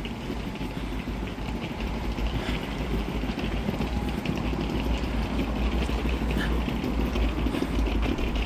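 Town street noise: a steady deep rumble of traffic with faint scattered ticks.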